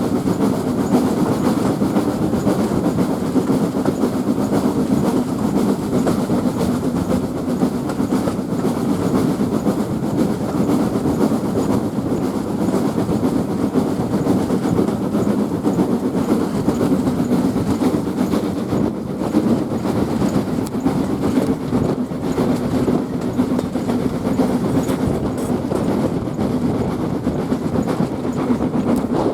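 A heritage train running along the line, with a steady rumble of wheels on rail.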